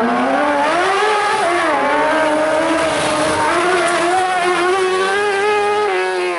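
Competition car engine running at high revs, its pitch climbing for the first second and a half, dipping briefly, then held high and steady.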